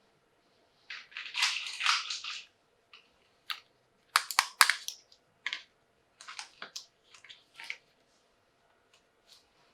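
Hands handling plastic toy pieces and packaging: a rustle about a second in, then a run of sharp plastic clicks and taps that thins out near the end.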